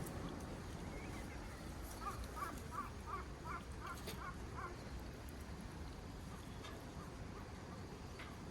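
A bird calling a quick series of about seven short notes, roughly three a second, over a steady outdoor background, with a single sharp click in the middle.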